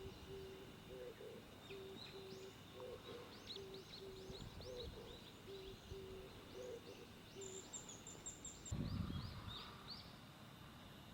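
Birds calling outdoors: a short low note repeated about every half second through most of the stretch, with quick high chirps and whistled notes over it. A brief low rumble comes about nine seconds in.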